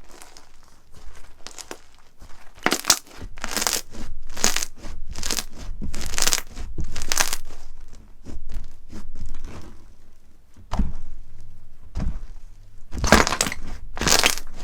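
Slime being squeezed, stretched and pressed by hand, giving a run of short crackly, crinkling squelches about one every half second to second, with a couple of duller low thumps near the end.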